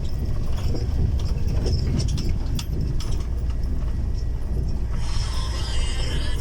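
Steady low drone of a vehicle's engine and road noise heard inside the cab, with scattered rattles and clicks. Background music comes in about five seconds in.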